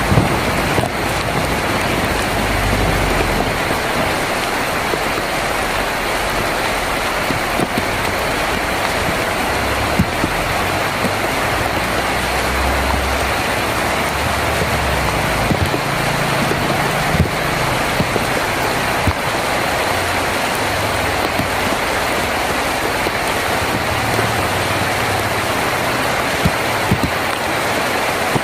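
Heavy rain drumming steadily on a tin roof, with a few sharper single drop hits standing out and a soft low rumble coming and going underneath.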